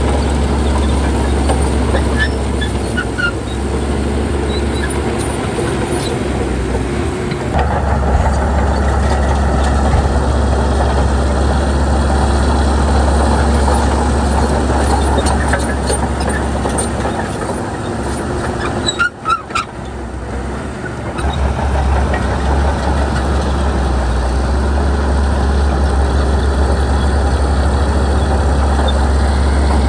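Heavy diesel engine of a Shantui bulldozer running steadily. It gets louder about seven seconds in and drops off briefly about two-thirds of the way through.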